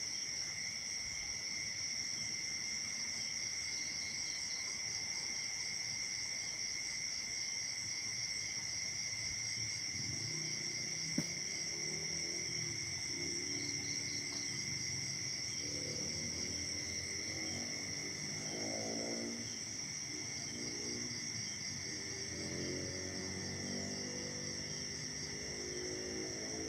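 Night chorus of crickets and other insects, a steady shrill drone at several pitches. From about ten seconds in, a fainter low pitched sound that wavers in pitch joins underneath, and there is one sharp click shortly after.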